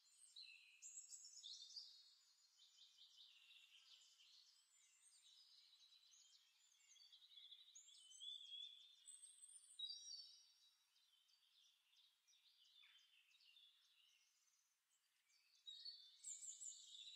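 Faint birdsong: several small birds chirping and trilling with quick rising and falling whistles, busiest near the start, around the middle and near the end.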